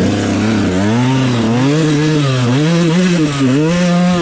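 Dirt bike engine running under riding throttle, its pitch rising and falling several times as the throttle is opened and rolled off.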